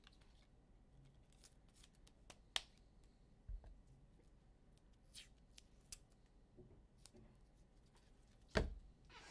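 Trading cards being handled on a table: scattered light clicks and soft rustles, with a sharper knock near the end.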